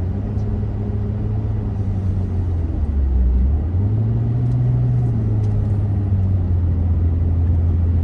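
Car engine and road noise heard from inside the cabin while driving, a steady low drone. The engine note rises briefly about four seconds in, then settles back.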